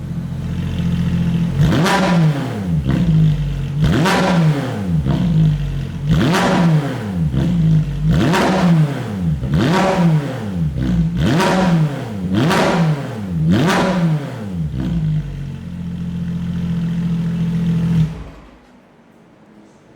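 Porsche 992 GT3's naturally aspirated flat-six, breathing through a JCR aftermarket exhaust with Inconel manifolds and catalysts, revved in about eight sharp throttle blips from idle, each rising and falling back quickly. It then idles steadily and cuts off near the end.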